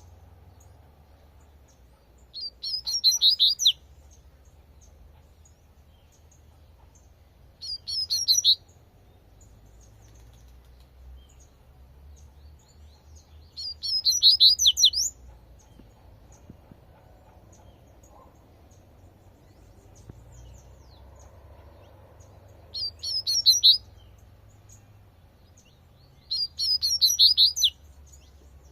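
Double-collared seedeater (coleirinho) singing its 'tui-tui' song: five short phrases of quick high notes, each about a second long and several seconds apart, over a faint low rumble.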